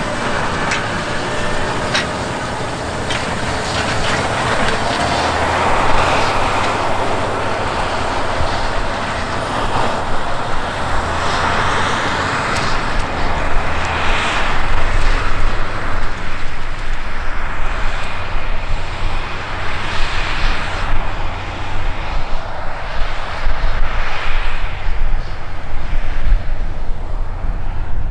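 Heavy diesel farm machinery running steadily in the field: a deep engine hum under a rushing noise that swells and fades several times.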